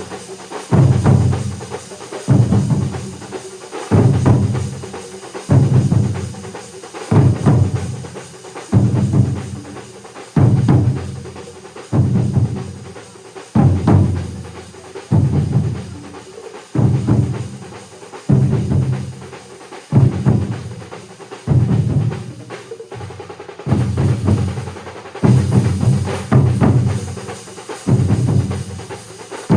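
Large ensemble of drums playing together, with heavy unison strokes about every one and a half seconds, each followed by quicker beats that fade before the next stroke.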